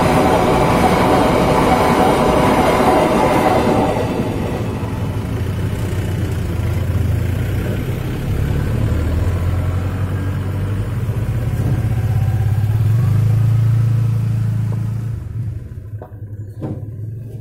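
A passenger train running past over the rails for about the first four seconds. The train's noise then gives way to road vehicle engines running, which swell and fade off near the end, where two short knocks are heard.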